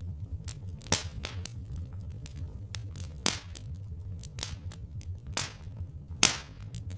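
Wood fire crackling: irregular sharp pops and snaps, a few louder cracks among them, over a steady low rumble.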